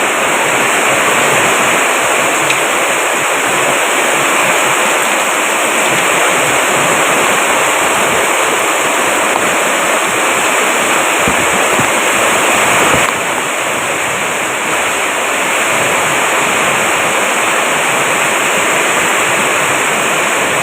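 Heavy rain pouring down in a steady, dense hiss, easing slightly about thirteen seconds in.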